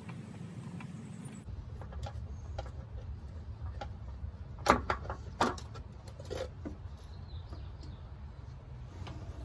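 Oil filter being worked off and handled under a truck: scattered light clicks, with two sharper clunks about halfway through, over a steady low hum.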